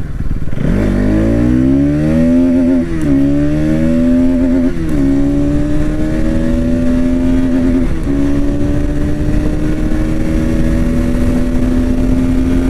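Bajaj Pulsar NS200's single-cylinder engine pulling hard under acceleration. Its pitch rises, drops at gear changes about 3 and 5 seconds in, then climbs slowly and steadily in a high gear toward top speed. A steady low rush of wind noise runs under it.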